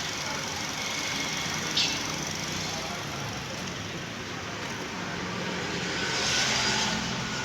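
Maruti K-series 1.5-litre straight-four petrol engine running steadily. A short hiss comes about two seconds in, and a longer, louder hiss comes near the end.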